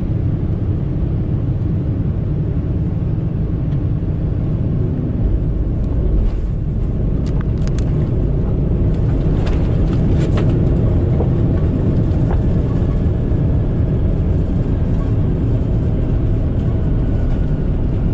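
Boeing 787-9 airliner's jet engines during landing, a loud, steady low rumble that grows a little louder about halfway through, with a few sharp clicks about seven to ten seconds in.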